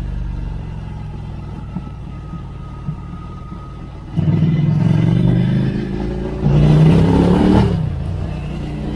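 2016 Ducati Scrambler Icon's 803 cc air-cooled L-twin through a Termignoni exhaust: first a low, steady note off the throttle, then about four seconds in the throttle snaps open and it pulls hard. It eases briefly, comes back on louder with a rush of wind, and drops back near the end.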